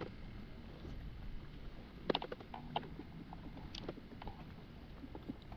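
Low steady noise of water and air around a kayak, with a few light knocks and clicks around two to four seconds in.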